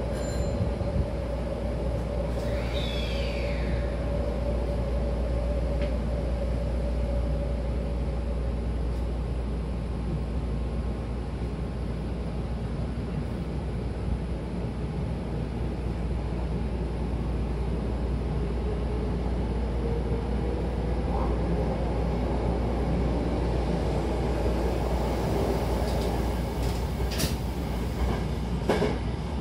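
Hankyu Takarazuka Line commuter train running between stations, heard from inside the car: a steady rumble of wheels on rail with a motor whine that fades out after several seconds and rises again later. A brief high squeal sounds about three seconds in, and a few sharp clicks come near the end.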